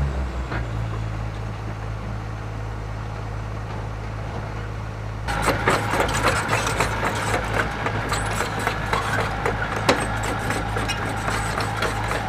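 Excavator diesel engine dropping from higher revs to a steady low idle. About five seconds in, a dense clatter of knocks and scrapes starts up over the engine and keeps going.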